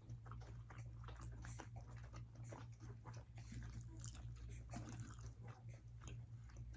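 Close-up chewing and biting of food: moist mouth clicks and light crunches at an irregular pace, over a steady low hum.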